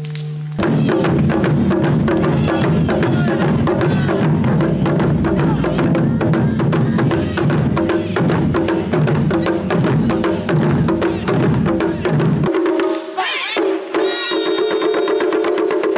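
Japanese taiko drums played together in fast, dense strokes over a steady held tone. About twelve and a half seconds in the drums stop, leaving a gliding, wavering pitched melody.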